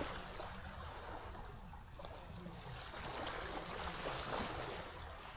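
Faint, steady wash of small waves lapping on a sandy bay shoreline.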